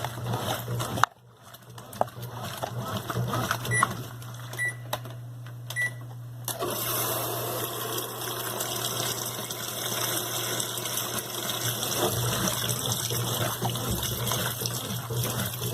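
Brastemp BWQ 24 washing machine: a click about a second in cuts off a rushing noise, three short beeps follow, and from about six and a half seconds water rushes in steadily over a low hum.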